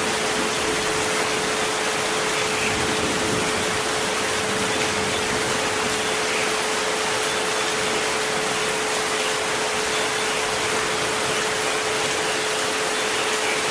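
Steady recorded rain, an even unbroken hiss, with a sustained pure tone at about 432 Hz held over it.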